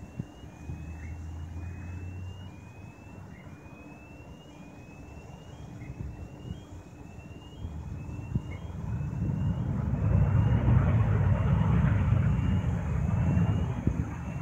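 Jet airliner landing: a low roar that builds about eight seconds in and is loudest for the last few seconds. A short rising chirp repeats about once a second throughout.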